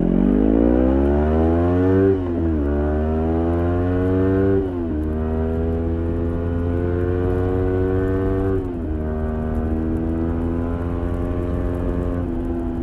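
Kawasaki Ninja 400's parallel-twin engine through an Arrow exhaust with the dB killer fitted, accelerating hard and shifting up three times. The pitch climbs, drops at each shift about two, four and a half and eight and a half seconds in, and each climb after a shift is slower than the last.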